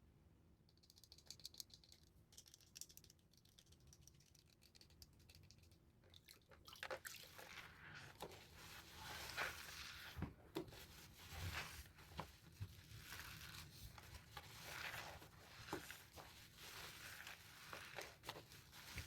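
Soaked, softened bar soap being squeezed and worked by hand: wet squishing and crackling with many small clicks, faint at first and growing louder about a third of the way in.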